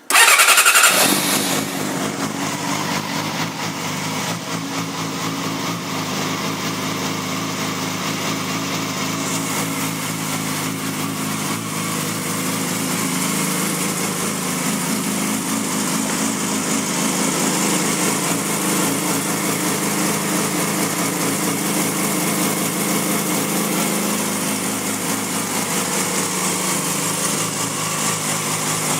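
2007 Yamaha YZF-R6 sport bike with a Graves aftermarket exhaust, started at the very beginning: it catches with a brief loud burst, then its 600 cc inline-four idles steadily.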